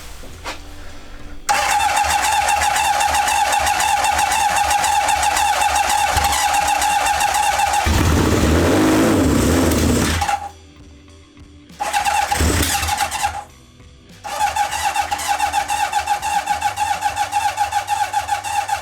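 Honda CB750 four-cylinder engine cranked on its electric starter in three goes, the starter whining with a fast even churn. On brake cleaner sprayed into the intakes it catches and fires roughly for about two seconds near the end of the first go, and again briefly in the second, without running on: the carburettors are not filling with fuel.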